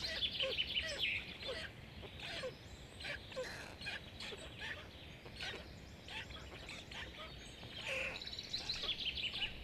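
Birds chirping: many short high-pitched peeps and chirps, with a quick rapid series of calls in the first second and another near the end.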